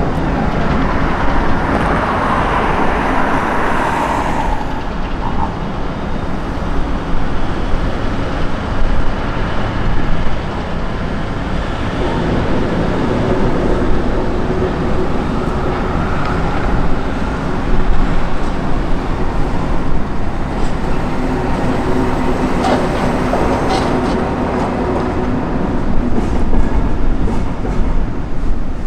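Steelworks railway train running on the tracks: a loud, steady rumble of wheels and wagons on rails. A higher-pitched noise falls away over the first four seconds, and a few sharp clicks come later.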